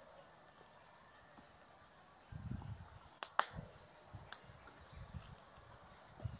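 Quiet outdoor ambience with a small bird's short high chirps repeating faintly. Two sharp clicks in quick succession a little after three seconds in are the loudest sound, with a weaker click about a second later and a few soft low thuds.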